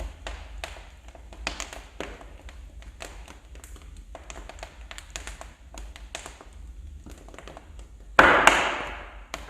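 Wood fire crackling in a fireplace: irregular sharp snaps and ticks, with one loud pop about eight seconds in that dies away over a second.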